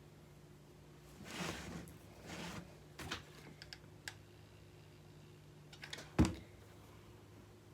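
Handling sounds while crafting by hand: two brief rustling swishes, then a few light clicks, and a sharper knock about six seconds in, over a faint steady hum.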